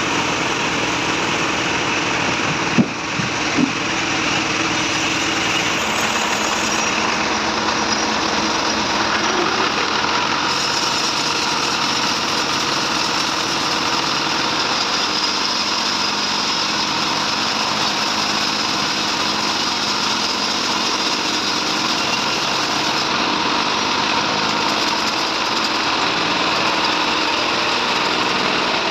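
Log bandsaw running and sawing through trembesi (rain tree) wood, a steady loud machine noise. There are two short knocks about three seconds in, and the sound grows brighter and hissier about ten seconds in.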